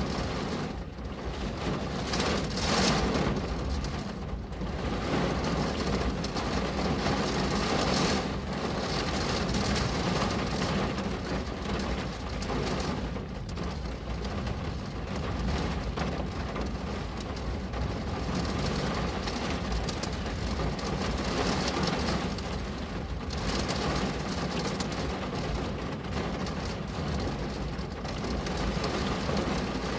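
Steady rain on a window pane: an even, dense hiss that swells and eases gently.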